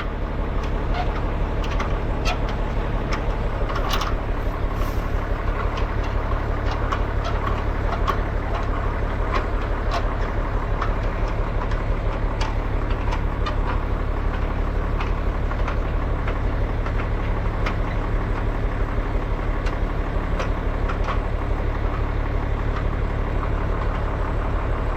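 Tractor engine running steadily, with scattered light metallic clicks and rattles.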